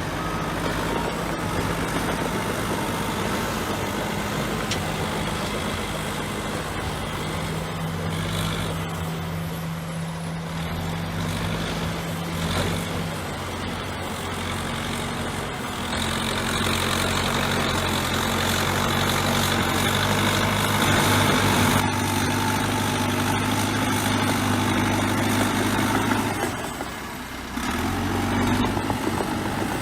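Bulldozer's diesel engine running steadily. It changes pitch about halfway through, runs louder for several seconds, then eases briefly near the end.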